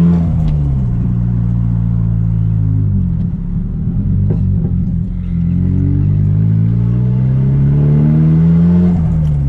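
Straight-piped Nissan Silvia S15's turbocharged SR20DET four-cylinder engine driving. The engine note falls as the car slows over the first three seconds, then rises steadily as it accelerates and drops again near the end.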